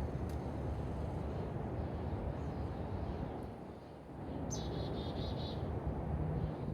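A small bird calls once about four and a half seconds in: a short falling note followed by a quick trill, over a steady low rumble.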